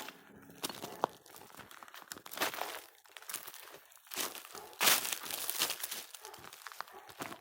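Footsteps crunching on a dry forest trail, in irregular crunches a second or two apart.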